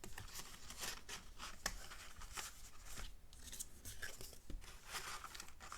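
Paper handling: irregular rustles and small taps as folded cardstock flips are shifted and pressed down by hand.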